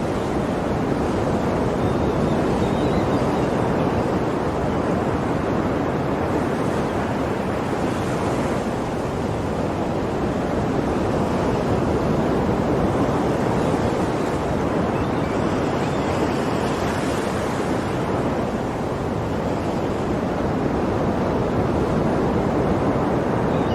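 Sea waves breaking and washing on a shore: a continuous rushing hiss that swells and eases every several seconds as each wave comes in.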